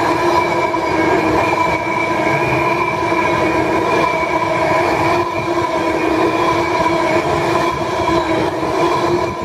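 Class 390 Pendolino electric train running slowly past: a rumble of wheels on rails under a steady whine that holds one pitch.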